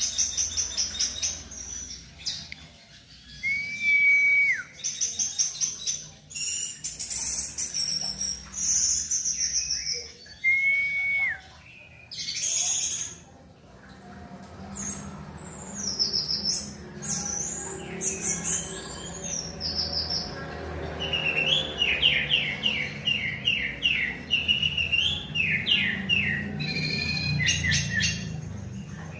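Orange-headed thrush (anis merah) singing a rapid, varied song of chirps, buzzy trills and sweeping whistled phrases, the full song hobbyists call 'teler'. A flat held whistle that drops at its end sounds twice early on, and a low hum comes in about halfway.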